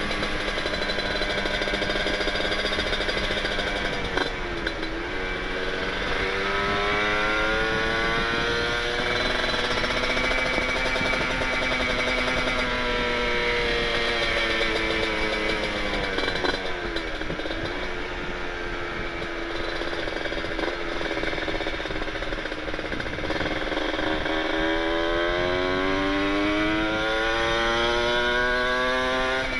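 Kawasaki Ninja 150RR's two-stroke single-cylinder engine through an Aitech carbon-kevlar expansion-chamber exhaust, under way: the revs climb and sag, drop sharply at gear changes about four seconds in and again past the middle, then climb again near the end.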